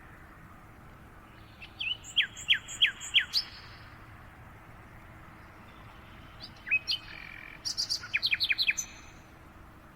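Birdsong: two short runs of quick chirps, about two seconds in and again about seven seconds in, each made of fast downward-sweeping notes with a few higher, thinner notes mixed in, over a faint steady background hiss.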